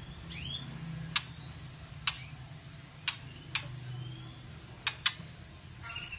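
Caged white-rumped shama giving sharp clicking call notes at irregular intervals, about six in all, two of them in quick pairs, with faint short rising chirps between them.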